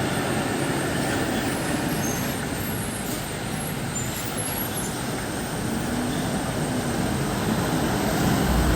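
Diesel engine of a heavy road vehicle such as a bus or lorry running on a hairpin bend, with steady road noise, growing louder over the last couple of seconds as it draws near.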